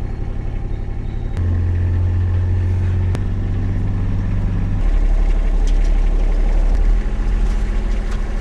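Motor vehicle engine running, heard from inside the cab: a steady low drone that shifts pitch in steps a few times as it drives. A couple of sharp clicks come early on.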